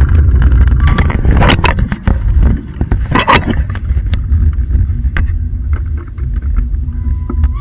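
Historic train running: a steady low rumble overlaid with irregular sharp clanks and knocks, loudest in two clusters about a second and a half and three seconds in.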